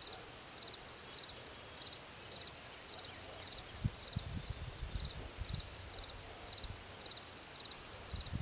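Insects chirping steadily in a regular, high-pitched pulsing rhythm, with a few low rumbling thumps in the middle.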